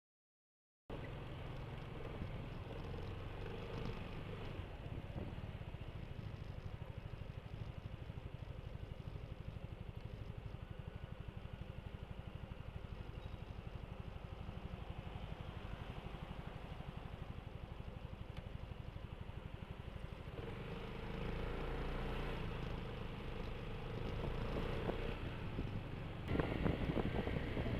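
Riding sound of a BMW C 400 GT maxi-scooter in traffic: the single-cylinder engine drones steadily under road and wind noise after a brief silence. A steady hum joins about twenty seconds in, and sharper clattering comes in near the end.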